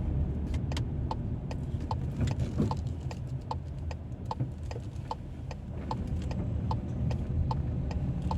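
Car turn-signal indicator ticking evenly, about once every 0.8 seconds, over the steady rumble of the engine and tyres inside the cabin.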